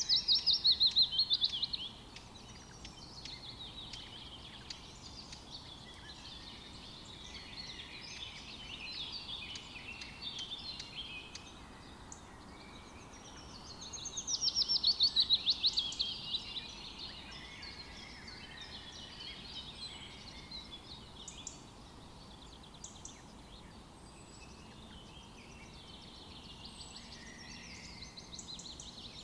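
Several songbirds singing in a forest chorus. A loud, rapid, falling trill comes at the start and again about halfway through.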